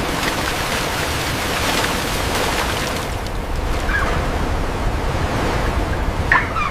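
Steady rushing, surf-like ocean ambience, with a faint brief higher squeak about four seconds in and another near the end.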